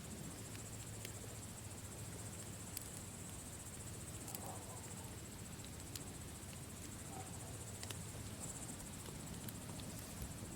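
Campfire crackling: sparse sharp pops scattered over a soft low rush, with a steady high-pitched trill running underneath.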